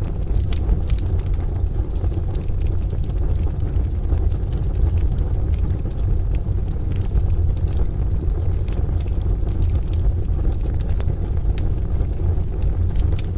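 Wood fire crackling, with irregular sharp pops and ticks, over a steady deep rumble and hiss of rain and distant thunder.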